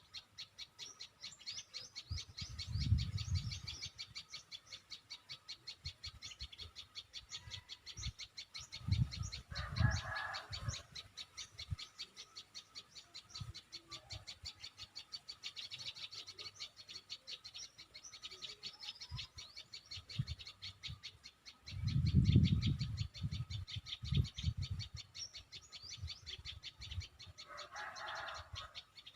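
Birds calling outdoors: a rapid, steady run of high chirps throughout, with a short lower call about ten seconds in and again near the end. Dull low thumps break in a few times, the loudest a little over twenty seconds in.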